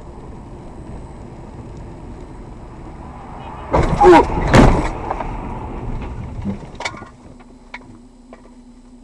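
A car drives with steady road noise, then a loud collision about four seconds in: two heavy bangs about half a second apart, followed by a few sharp knocks. After that the road noise stops and only a low steady hum is left.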